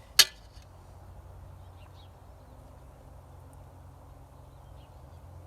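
A single sharp knock a fraction of a second in, then a steady low background with a few faint bird chirps.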